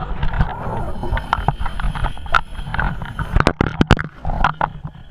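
Scuba diver breathing underwater through a regulator, with rough, bubbling exhaust noise. A few sharp clicks or knocks come between three and a half and four seconds in.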